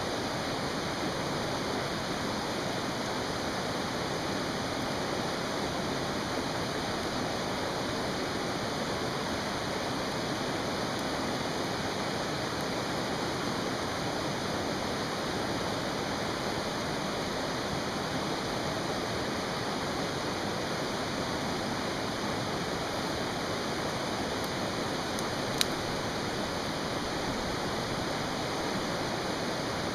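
Mountain stream rushing steadily, with one sharp pop near the end.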